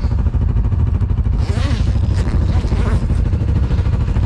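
Off-road vehicle engine running steadily under way, a constant low rumble.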